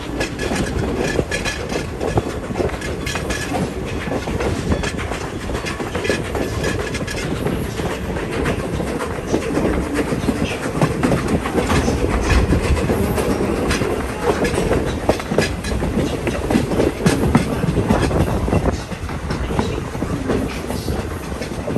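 Passenger train heard from aboard a coach: a steady rumble and rattle, with wheels clicking over rail joints.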